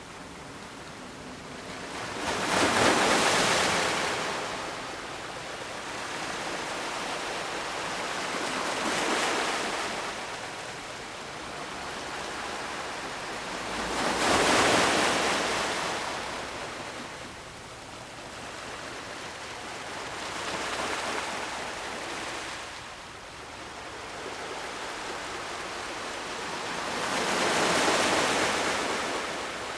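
Ocean surf: waves rolling in and washing up, five surges about six seconds apart with a steady hiss of water between.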